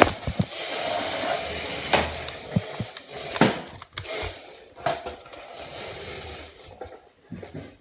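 1/10-scale WRC rally RC car driving across an indoor floor: a continuous rolling, whirring hiss from its wheels and motor, broken by several sharp knocks and clicks, and easing off after about seven seconds.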